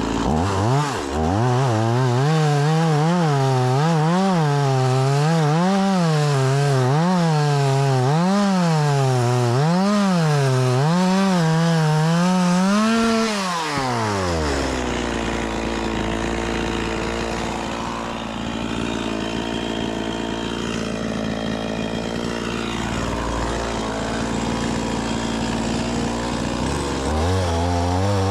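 Stihl MS 180 two-stroke chainsaw cutting wood, its engine at high revs with the pitch rising and falling about once a second as the chain loads and frees in the cut. About halfway through the throttle is released and the saw drops to a steady idle, then it revs up again near the end.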